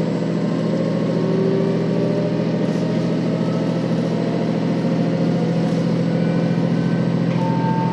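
KiHa 40 series diesel railcar under way, its diesel engine giving a steady low drone over the running noise of the train, with faint tones above it rising slowly.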